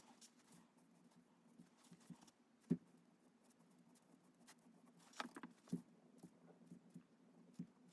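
Faint irregular taps and short scratches of a pen on paper during drawing, with a sharper click about three seconds in and a cluster of strokes near the end, over a steady low hum.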